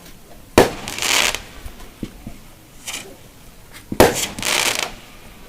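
Fireworks bursting: two sharp bangs about three and a half seconds apart, each followed by a short hissing crackle, and a third bang at the very end.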